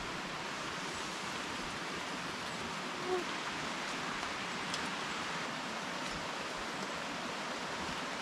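Steady hiss of rain falling on the rainforest, with a brief faint chirp about three seconds in.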